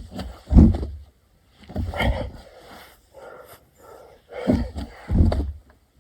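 A person doing burpees: hard breaths and the thuds of hands and feet landing on the ground, repeating every second or two.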